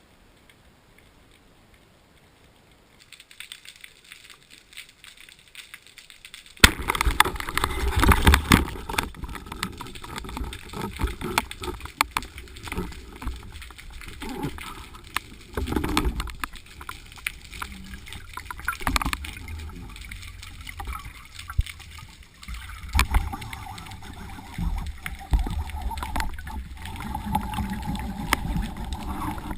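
Water splashing and sloshing with irregular knocks and low rumbles, starting suddenly about seven seconds in after a quiet stretch.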